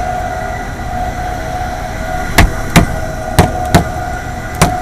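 Fan motor of a 5-ton AAON rooftop HVAC unit running with a steady whine over a low rumble, joined about halfway through by sharp knocks coming in pairs. The fan motor bearings are going out and the motor wobbles too much.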